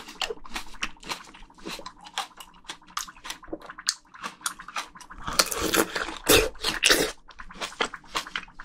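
Close-miked chewing of a juicy plum: wet smacking and squelching clicks from the mouth, with louder, wetter bites about five to seven seconds in.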